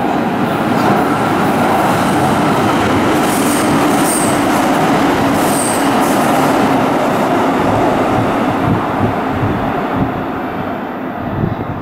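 Kintetsu 9820 series electric train running through the station without stopping: a loud, steady rush of wheels and motors on the rails, with a few brief high squeaks from the wheels around the middle.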